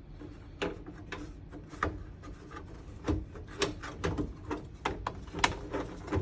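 Hard plastic diorama parts clicking and knocking as they are handled and fitted, about a dozen sharp clicks with a light rubbing between them.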